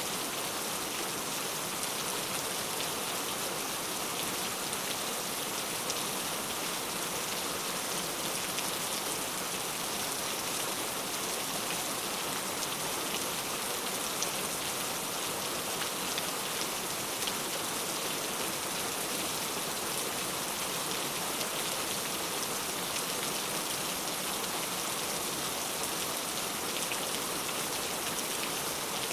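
Heavy rain falling steadily, a dense even hiss with many fine drop patters and no pauses.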